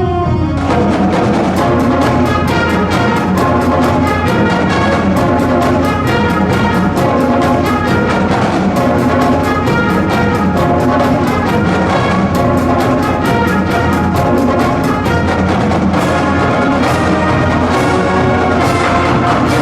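High school marching band playing a funk tune: brass horns over a steady, driving drum beat.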